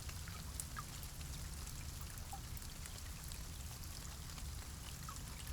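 Faint, steady rain falling, with an occasional light drip.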